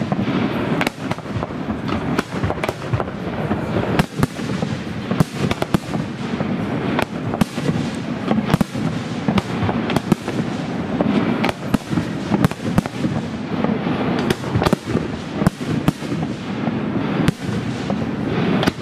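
Aerial firework shells bursting during a fireworks display: a dense, irregular run of sharp bangs, several a second, over a continuous noisy background of further bursts.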